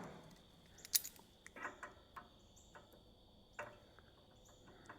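Scattered light clicks and taps of hand tools at a small engine's rubber fuel line as it is clamped off and pulled from the carburetor. A faint steady high-pitched tone sounds underneath.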